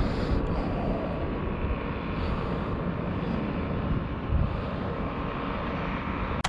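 Steady wind rumble on the microphone mixed with the wash of surf on the beach.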